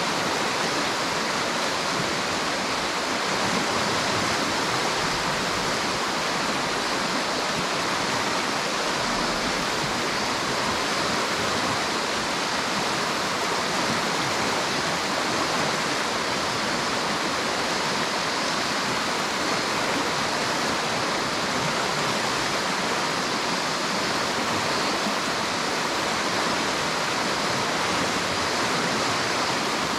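River water running steadily over rocks, an even rushing with no breaks.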